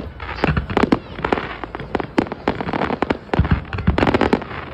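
Fireworks exploding in quick, irregular succession: sharp bangs overlapping, some followed by a crackling fizz.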